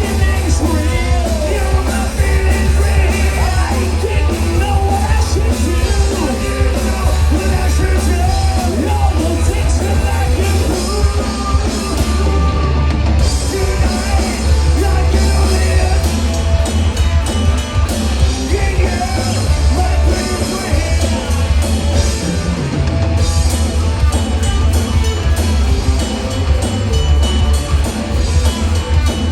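Rock band playing live, loud, with heavy bass and sung, shouted vocals.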